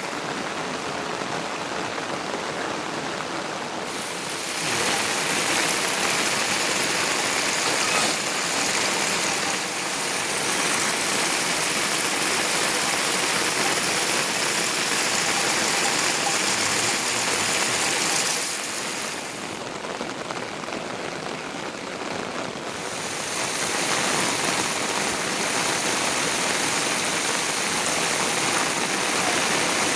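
Heavy rain falling steadily, a dense even hiss. It is a little quieter for the first few seconds and again for a few seconds past the middle.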